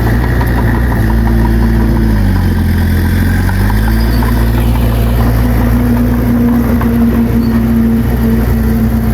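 Diesel engine of heavy earthmoving equipment running steadily; about two seconds in, its pitch sags for a second or two, then climbs back.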